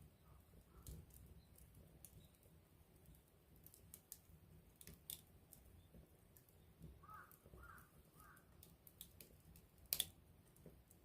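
Campfire wood crackling quietly: scattered small pops and ticks, with a sharper pop about ten seconds in, over a faint low rumble.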